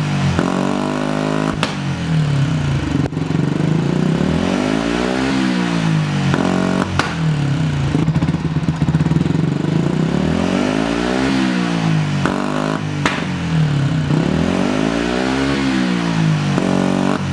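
Yamaha MT-125's 125 cc single-cylinder four-stroke engine, breathing through an Akrapovic titanium exhaust with the dB killer fitted, revved up and let fall again and again, every couple of seconds. There are a few sharp backfire pops as the revs drop.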